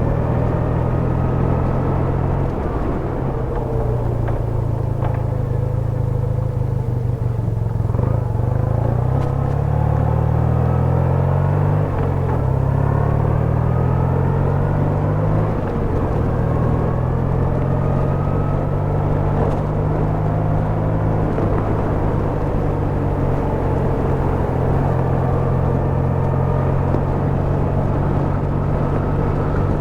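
BMW R100RS's air-cooled flat-twin boxer engine running under way, a steady low exhaust note that shifts up and down in pitch between about eight and sixteen seconds in as the revs change, then settles again.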